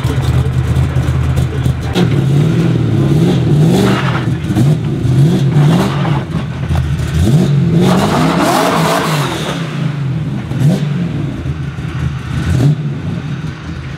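LS V8 engine in a Toyota AE86 Corolla, running through its freshly made exhaust and revved repeatedly, its note rising and falling over and over.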